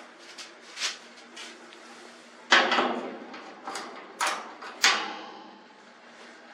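Knocks and clanks of garage door hardware being handled while the rollers and their track are worked on: a few light taps and two sharp loud knocks, each trailing off briefly.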